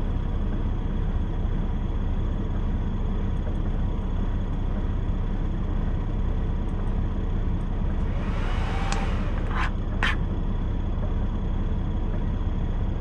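Steady low rumble of a semi truck's idling diesel engine heard inside the cab. About two-thirds of the way through there is a short hissing swish, followed by two sharp clicks.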